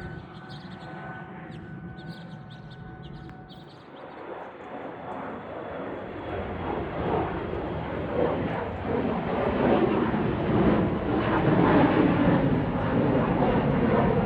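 Airplane taking off: engine noise builds from about four seconds in and swells steadily until it is loud near the end, with short caws in the first few seconds.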